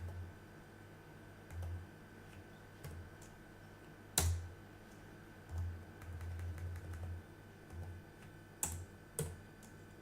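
Computer keyboard keys clicked a few times, with sharp isolated clicks about four seconds in and a pair near the end, over a faint steady electrical tone.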